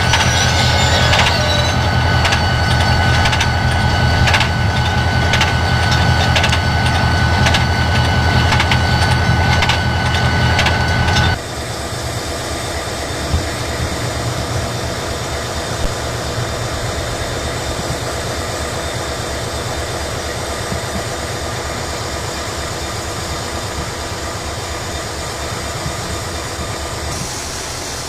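High-nose EMD Geep diesel locomotives running past with a steady low engine hum and a high whine, and wheels clicking regularly over rail joints. About eleven seconds in the sound drops abruptly to a quieter, steady train rumble with a couple of faint knocks.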